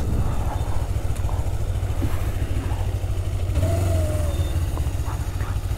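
Motorcycle engine running steadily at low revs, a fast, even low-pitched pulse with no revving.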